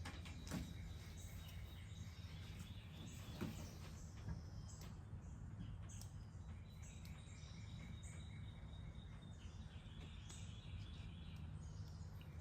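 Faint background noise with a steady low hum and a few soft knocks.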